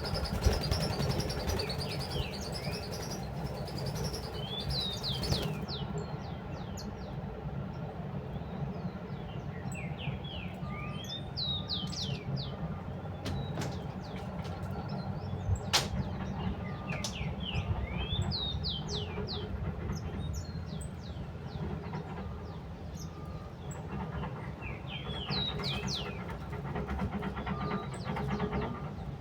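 Small birds chirping: many short, quick chirps in clusters, over a steady low rumble, with a faint short beep repeating every second or two from about ten seconds in.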